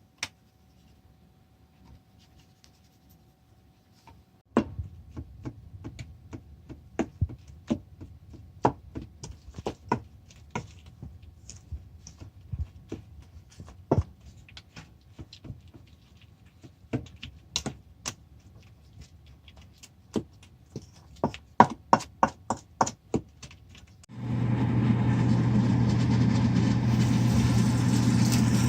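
Knife chopping chives on a cutting board: irregular sharp taps, with quick runs of chops near the end. Then an electric kitchen appliance motor starts up and runs steadily and loudly with a low hum, as when grinding the pancake ingredients.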